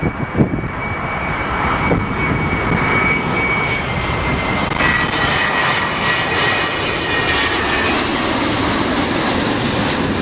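Airplane engines running as an aircraft passes: a steady rush with a high whine that drops in pitch about halfway through.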